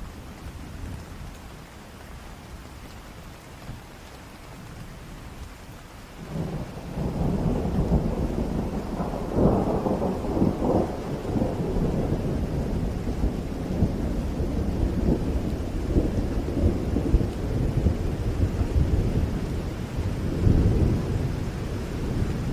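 Steady rain, then about six seconds in a long roll of thunder builds and rumbles on over the rain, with crackling peaks a few seconds after it begins and another swell near the end.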